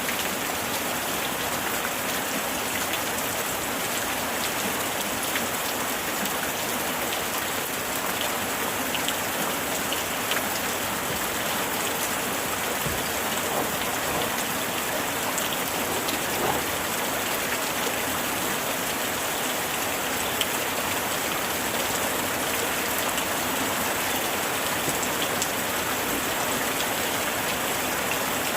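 Steady heavy rain falling, an even continuous hiss flecked with scattered individual drops ticking.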